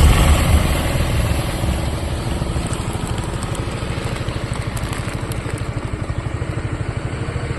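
Motor scooter engine running steadily with a fast, even pulse.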